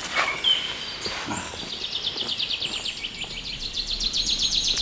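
A songbird singing a fast run of repeated high chirping notes that grows louder toward the end. Before it, a couple of brief rustles of clothing and movement as a person climbs over a fallen log.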